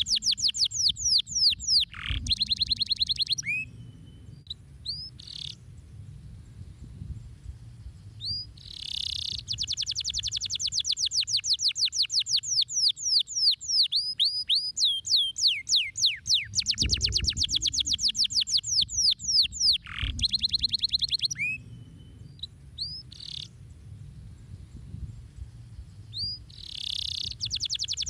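Domestic canary singing: long rapid trills of quick sweeping notes, broken by short buzzy phrases and a few scattered single notes, with quieter pauses of a few seconds between the runs.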